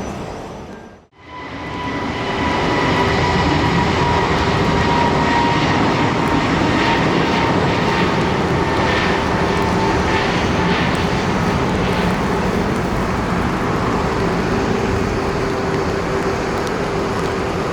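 Jet airliner's turbofan engines running loud and steady, with a whine held at a few steady pitches over the roar. Near the start the sound fades out briefly and comes back.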